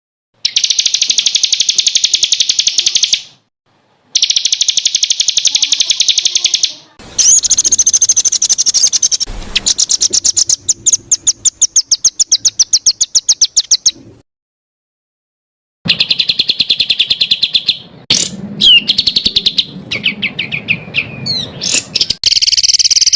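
Songbird song of the rapid-fire "tembakan" type: very fast, evenly repeated high notes in bursts of about three seconds. The bursts stop abruptly into short silences, and varied chirps and short whistles come near the end.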